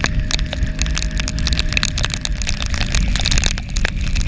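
Rain spattering on the microphone as a dense crackle of drop hits, over a steady low wind and road rumble while riding on a highway in the rain.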